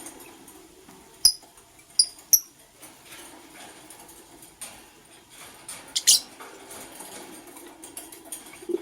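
Lovebirds chirping: three short, sharp high chirps in the first few seconds, then a harsher, scratchier call about six seconds in.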